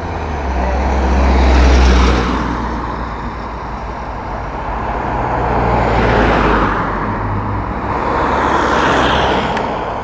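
Cars passing close by on the road, three in succession, each swelling up and fading away. The first has the deepest rumble and is the loudest.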